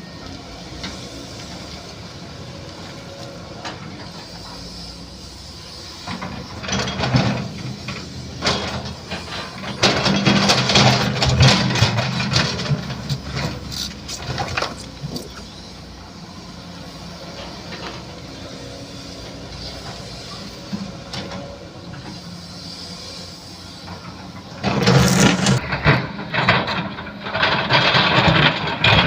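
Sany SY215C hydraulic excavator at work: its diesel engine runs steadily, with three louder, noisier spells of digging about six, ten and twenty-five seconds in.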